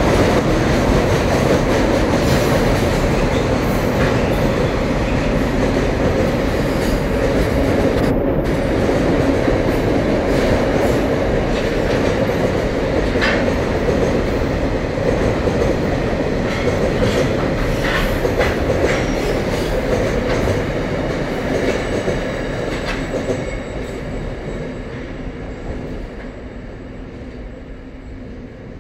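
Container wagons of a freight train rolling across a steel truss rail bridge, heard from beneath the span: a steady rumble with scattered clicks of wheels over the rails. It fades away over the last several seconds as the end of the train clears the bridge.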